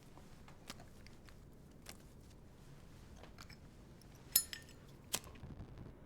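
Quiet room with faint scattered handling clicks, then a sharp ringing clink of small hard objects, like china, glass or metal knocking, a little past the middle, followed by a second sharp click.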